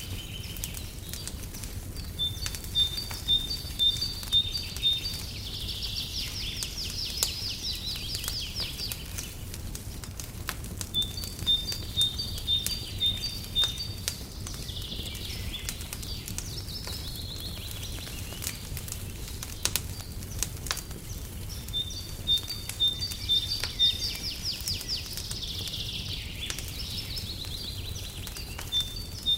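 A songbird singing the same phrase about every ten seconds: a run of evenly spaced high notes followed by a fast, high trill. Faint scattered crackles of a fireplace fire and a steady low rumble run beneath.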